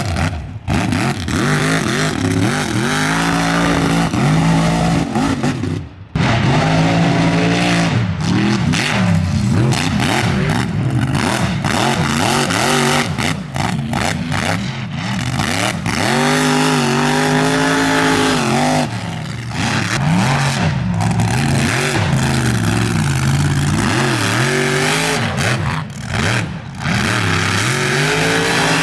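Mud truck engines revving hard, their pitch climbing and falling again and again, with a brief drop in level about six seconds in.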